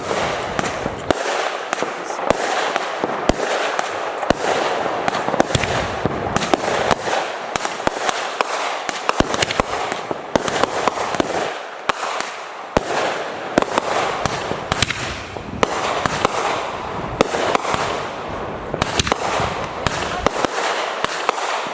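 Fireworks going off in rapid succession: a dense run of sharp bangs and pops, several each second, with no break.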